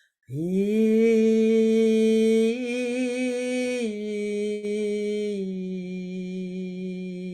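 Vocal toning: a woman's voice holds one long, slow, low tone. It slides up into the note just after the start, then steps down slightly to a lower pitch about four seconds in and holds it.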